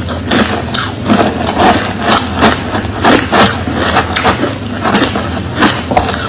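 Crushed clear ice crunched between the teeth in steady, rapid chewing, about two to three crunches a second.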